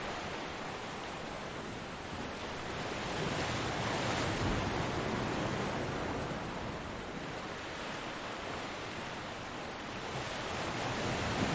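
Ocean surf: waves breaking and washing onto a beach in a steady rush, swelling about three seconds in and again near the end.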